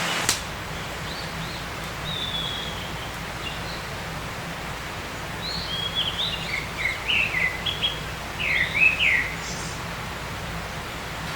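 A songbird singing: a few high chirps early, then a quick run of varied gliding chirps and whistles for about four seconds, over a steady forest hiss.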